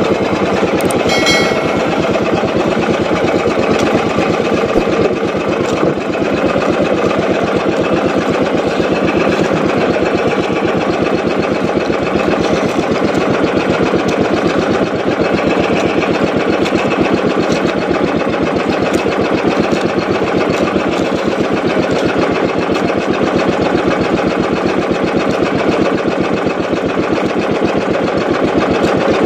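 Small boat engine running steadily with a fast, even putter, and a short beep-like tone about a second in.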